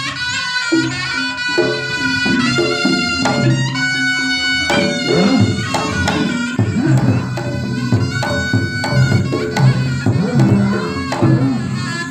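Traditional reog gamelan music: a reedy, shawm-like wind instrument playing a bending melody over sustained low notes and drums.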